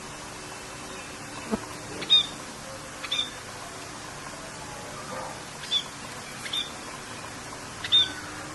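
A bird giving short chirps, five in all, spaced a second or two apart, over a steady hiss of rain.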